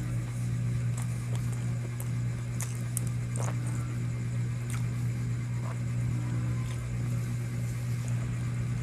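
A steady low mechanical hum, with scattered small clicks and taps over it.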